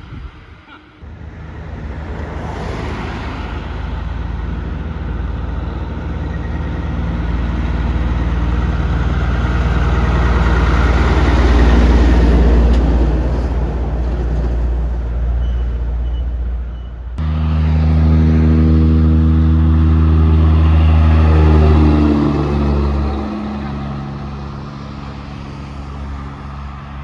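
Heavy truck diesel engines running as trucks go by, the drone building to its loudest about halfway through. After an abrupt cut, a second truck engine pulls loudly and then falls back a few seconds before the end.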